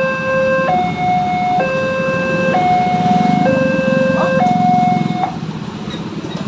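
Railway level crossing warning alarm sounding an electronic two-tone pattern, alternating between a lower and a higher tone about once a second, over a low rumble. It stops a little over five seconds in.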